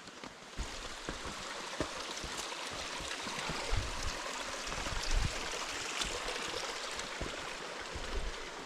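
Rushing river water: a steady hiss of flowing water that swells up about half a second in, with a few low thumps.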